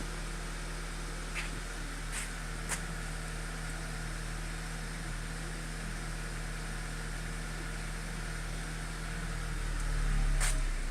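2010 Audi A4 2.0T turbo four-cylinder idling on a cold start, with the secondary air injection pump running alongside. Near the end the sound swells and then changes as the secondary air cycle ends and the idle drops.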